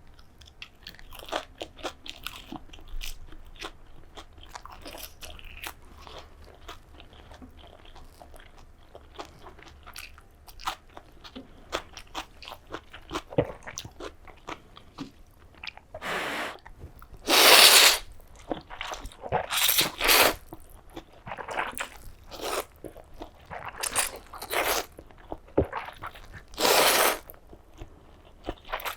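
Close-miked eating of crispy pan-fried snowflake dumplings (눈꽃만두): soft chewing clicks at first, then from about halfway a series of loud crunching bites and chews.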